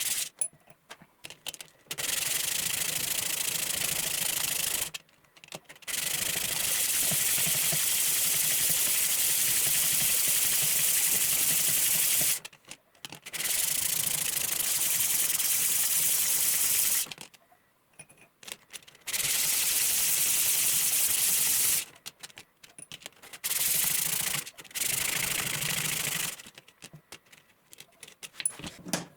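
Powered abrasive sanding or grinding of the steel knife blank cut from a saw blade, in several passes. Each pass is a steady hiss lasting from one to six seconds and stops abruptly, with short quiet gaps and small clicks between passes.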